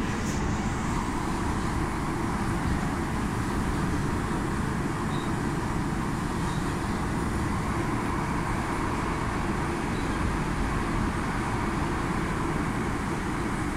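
Steady running noise of a moving train, a low rumble and rush heard from inside the carriage.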